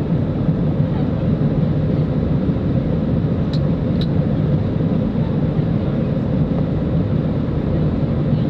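Boeing 777 jet engines giving a steady low rumble at high power during the takeoff run or climb, with two faint short clicks about midway.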